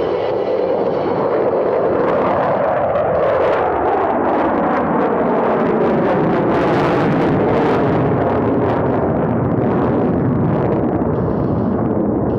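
A formation of F/A-18 Super Hornet jets passing with a loud, continuous jet roar. The pitch falls from about two to five seconds in as they go by.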